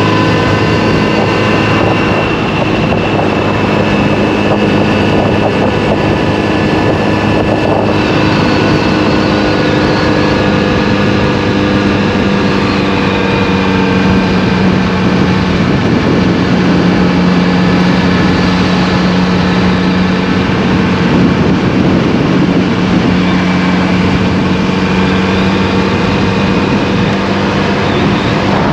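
Motorcycle engine running at a steady cruising speed, its pitch shifting only gradually, with wind rushing past the microphone.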